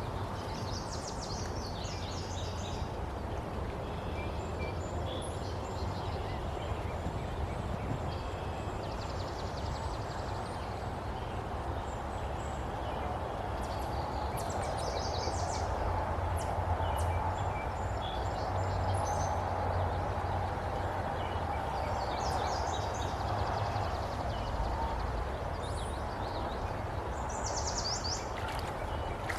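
Steady rush of a river running high after rain, with birds chirping and calling briefly several times over it.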